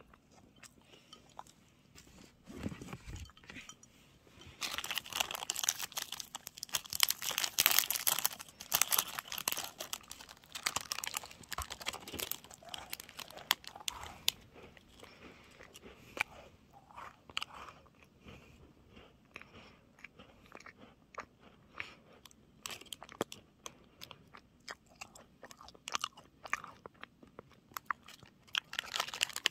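Close-miked crunching and chewing of a nut-coated Pepero stick. The crunching is loudest and densest for about eight seconds starting a few seconds in, then settles into quieter chewing with scattered small crunches.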